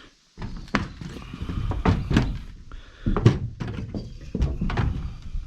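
A rapid, irregular series of thumps and knocks with rustling, louder than the speech around it.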